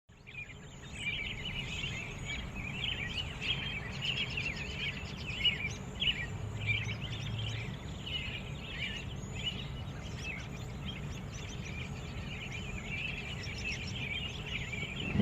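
Many small birds chirping and twittering at once in a dense, continuous chorus, over a steady low rumble.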